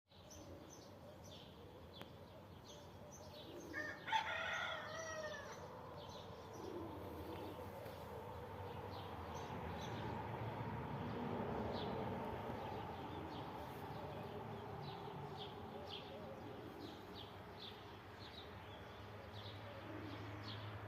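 Sparrows chirping again and again in short high notes, with a rooster crowing once, loudly, about four seconds in.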